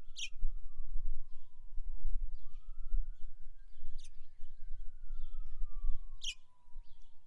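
An emergency-vehicle siren wails in slow cycles, rising over about two seconds and falling over about four. Three short, high bird chirps sound over it, with a low rumble underneath.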